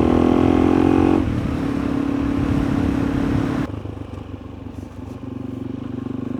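Suzuki DR-Z400E single-cylinder dirt-bike engine running under way. Its revs drop about a second in, and near four seconds in the rider backs off to a low, slow putter with much less wind noise.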